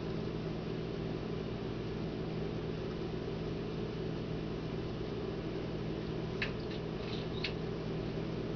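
A steady mechanical hum with a room hiss, like a running household fan or appliance. About six and a half to seven and a half seconds in come a few brief high-pitched chirps.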